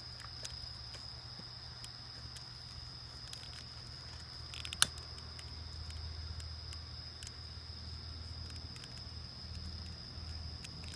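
Small wood campfire crackling, with scattered pops and one sharper pop about five seconds in, over a steady high trill of insects.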